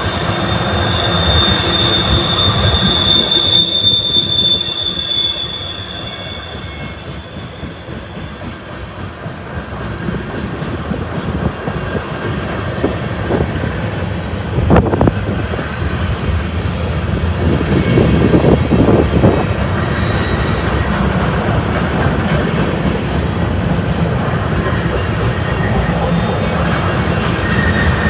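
Freight train rolling past with the rumble of its cars. Its wheels squeal in a high steady tone during the first few seconds, and again from about twenty seconds in.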